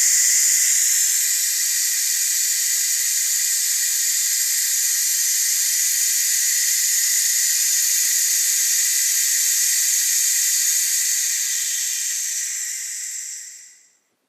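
Nitrogen hissing out of a hose through a purge/braze flow regulator set to about 50 psi, on its braze setting. The hiss eases slightly about a second in, holds steady, then dies away near the end.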